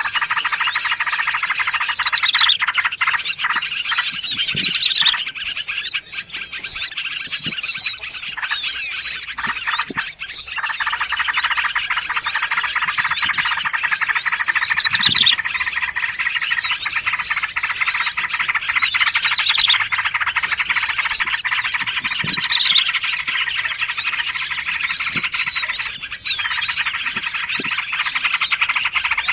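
Dense, continuous chorus of many small songbirds chattering, chirping and trilling over one another: a layered bird-lure recording of bulbuls, prinias and other forest birds.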